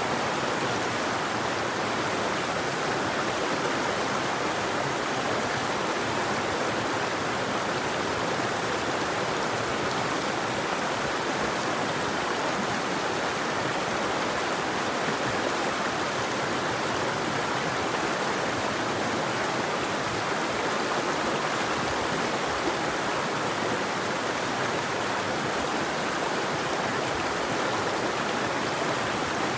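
River water flowing: a steady, even rushing that does not change, with no birdsong.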